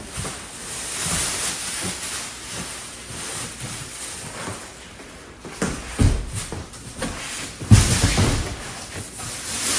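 Cardboard and plastic packaging rustling and scraping as a boxed chair is unpacked, with a thump about six seconds in and a louder thump near eight seconds.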